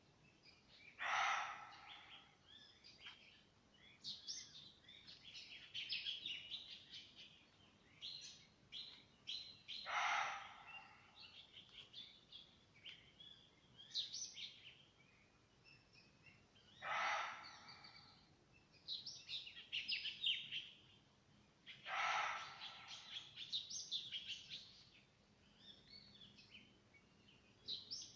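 Forest birds chirping and singing throughout. A louder call that reaches lower in pitch comes four times, each about a second long, several seconds apart.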